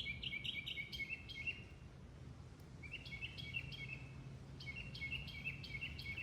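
A songbird singing three phrases of rapid, repeated whistled notes, about six or seven a second, over a steady low background rumble.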